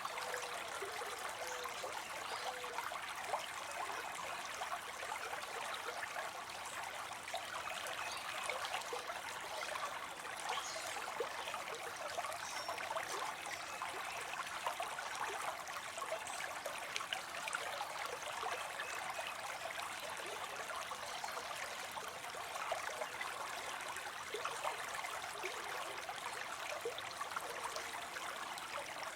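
Water spilling steadily into a pond, a continuous splashing trickle with many small flickers and no pauses.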